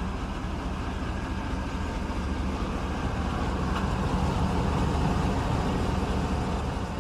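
Hummer H2's 6.0-litre V8 running steadily while the truck drives, under a constant haze of road and tyre noise. The sound swells slightly about four to five seconds in.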